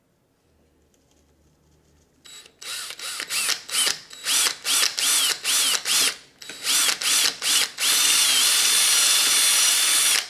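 Electric drill boring out a broken plastic piece lodged inside a manual-transmission shifter: after about two seconds, a dozen or so short trigger pulses, each spinning up and winding down, then a steady run near the end that stops abruptly.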